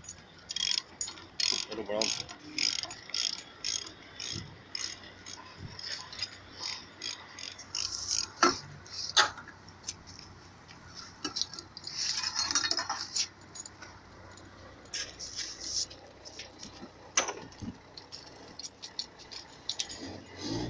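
Hand tools working on a diesel engine being dismantled: a rapid, uneven run of sharp metallic clicks like a ratchet wrench turning bolts, with a longer scrape of metal on metal partway through.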